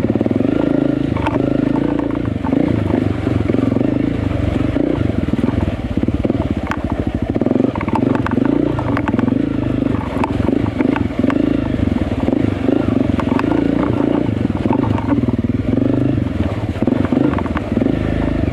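Enduro dirt bike engine revving hard through soft sand, its pitch rising and falling again and again as the throttle is worked, with knocks and clatter from the bike.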